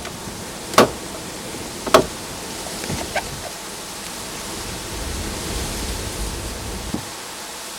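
Steady rushing noise of thunderstorm wind and rain on a phone microphone, with a few sharp clicks in the first three seconds and a low rumble swelling and fading between about five and seven seconds in.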